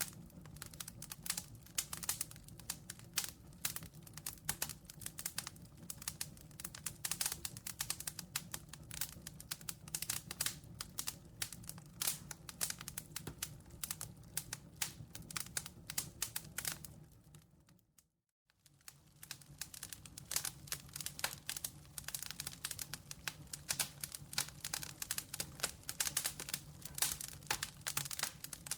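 Campfire crackling: dense, irregular pops and snaps over a low steady hum. About 18 seconds in, it fades out to silence for under a second and fades back in.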